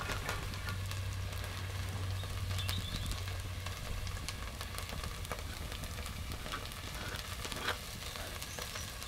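Diced potatoes sizzling in an open Dutch oven over a campfire, a steady frying hiss with a few faint ticks.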